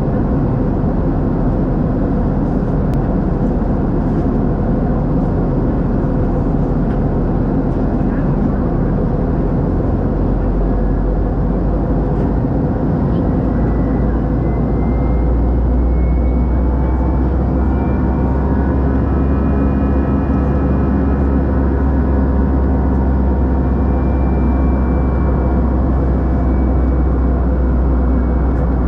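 Airbus A320-214 cabin noise from a window seat: a loud, steady rush and low rumble from its CFM56 engines and the airflow. About halfway through, the engines' whine rises in pitch and the low drone strengthens, as the engines spool up.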